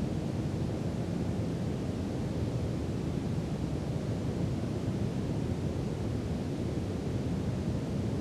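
Steady brown noise: an even, deep rushing hiss with most of its weight in the bass, unchanging throughout.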